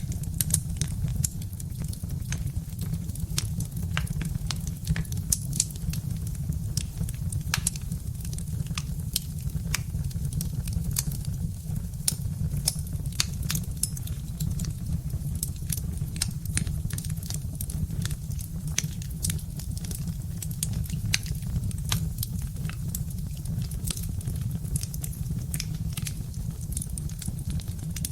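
Birch-wood fire crackling, with frequent sharp irregular pops and snaps over a steady low rumble of the burning logs.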